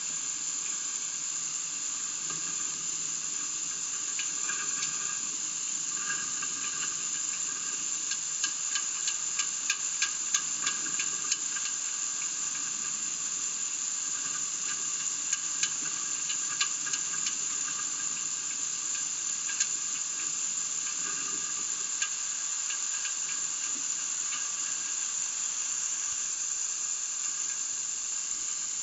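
A steady, high-pitched hiss runs throughout, with a quick run of sharp clicks a third of the way in and a few scattered clicks after.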